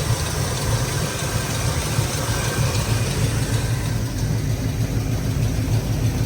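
Classic Pontiac Grand Prix's small-block Chevy V8 idling steadily, heard close up under the open hood.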